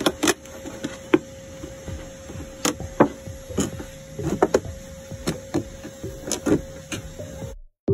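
A knife cutting and stabbing into a plastic milk jug, giving irregular clicks, knocks and scrapes of plastic over a faint steady hum. It cuts off suddenly near the end.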